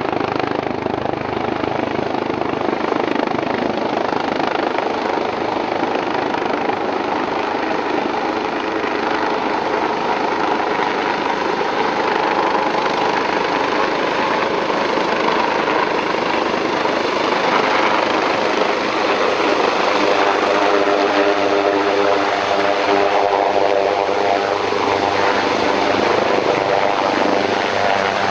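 Helicopter's rotor and turbine running loud and close while it maneuvers, a dense steady noise. Past the middle it grows a little louder and a pitched hum comes in.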